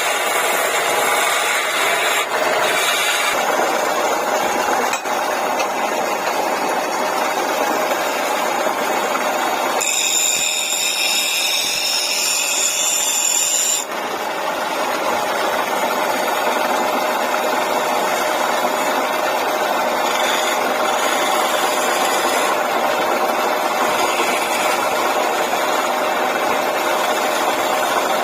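Wood lathe running while a tool scrapes and cuts the spinning wood, a steady rasping noise over the motor's hum, turning shriller and hissier for about four seconds in the middle.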